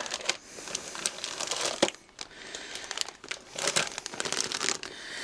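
Crinkling plastic bags of model kit parts being handled, with irregular small crackles and rustles.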